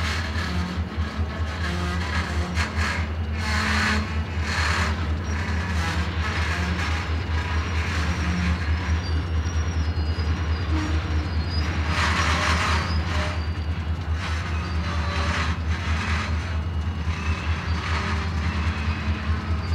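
Diesel locomotives of an arriving freight train running with a steady, low, pulsing engine rumble. Brief louder rushes of rail and brake noise come every few seconds, the longest about twelve seconds in.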